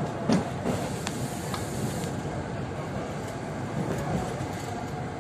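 Cercanías electric commuter train running, heard from inside the carriage: a steady rumble of wheels on the rails. A sharp knock comes about a third of a second in, then several lighter clicks over the next second or so as the wheels run over the trackwork.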